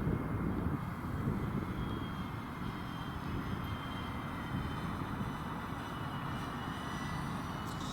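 C-130 Hercules flying, its propellers giving a faint high whine that drifts slightly in pitch over heavy wind rumble on the microphone.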